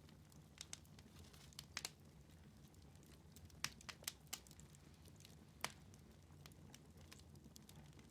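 Wood fire in a fireplace crackling, with about ten sharp snaps and pops scattered through, the loudest a few seconds in, over a low steady rumble.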